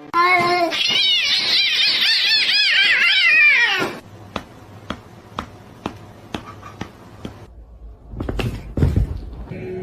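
A cat yowling in a fast run of rising-and-falling cries for about four seconds, stopping abruptly; after that come faint ticks and a couple of low thumps near the end.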